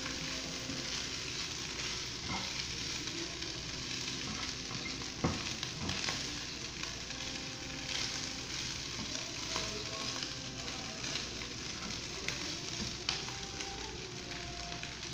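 Shredded chicken, sliced onion and green bell pepper sizzling in a nonstick frying pan as they are stir-fried, with a spatula knocking against the pan now and then, the sharpest knock about five seconds in.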